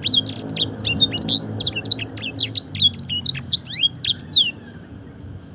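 Canary singing a fast, varied song of quick rising and falling whistled notes in the blackthroat style, stopping about four and a half seconds in.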